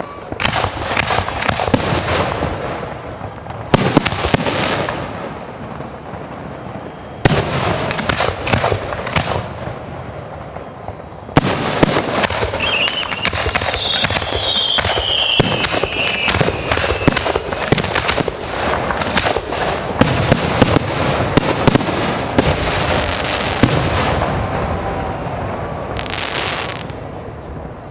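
Aerial fireworks display: a string of booming shell bursts with crackle. From about eleven seconds in the bursts come thick and fast in a near-continuous barrage, then thin out near the end.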